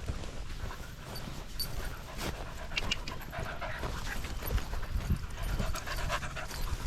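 A dog panting, with scattered light clicks and rustles.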